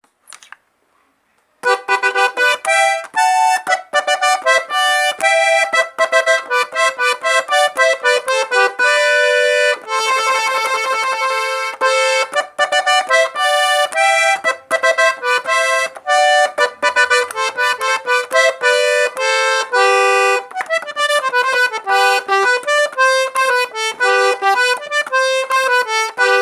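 Accordion playing a tune in quick runs of notes, starting about a second and a half in.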